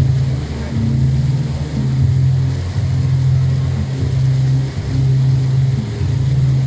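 Tour boat's engine running with a steady low drone that swells and eases slightly every second or so, over faint water wash.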